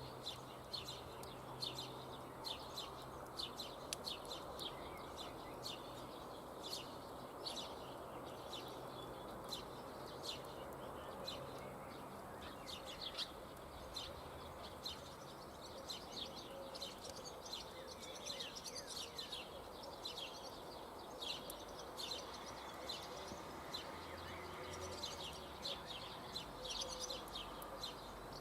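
Small birds chirping: many short, high, quick calls in an irregular run, over a steady low hiss of outdoor background noise.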